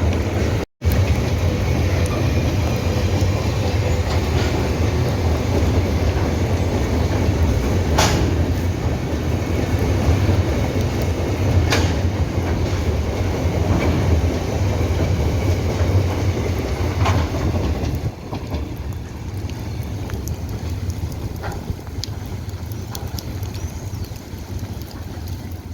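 Long freight train of empty ore wagons rolling past, a steady low rumble with occasional sharp wheel clacks. The rumble grows quieter about eighteen seconds in.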